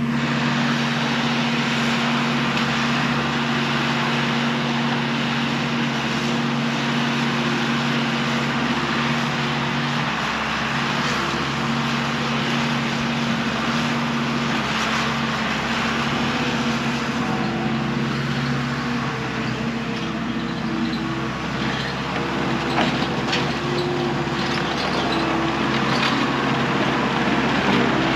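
Engine of a piece of loading equipment running steadily under varying load, its pitch shifting a couple of times, with scattered knocks and clanks in the second half.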